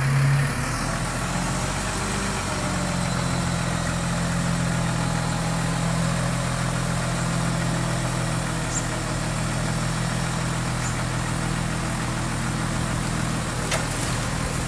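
Diesel engine of heavy construction machinery idling steadily, with a brief louder burst right at the start.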